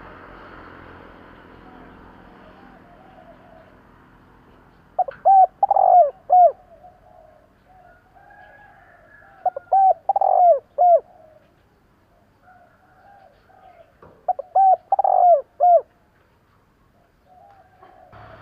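Spotted dove cooing: three loud phrases, about four to five seconds apart, each a quick run of four or five falling notes. Softer cooing fills the gaps between the phrases.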